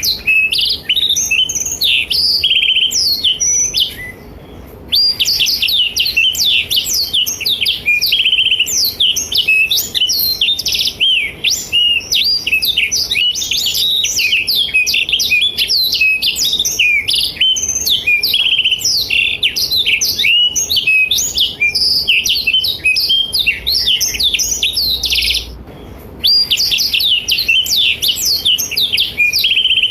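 Black-throated canary (blackthroat) singing in full voice: a long, rapid, unbroken run of high twittering trills and chirps. It breaks off briefly about four seconds in and again near the end.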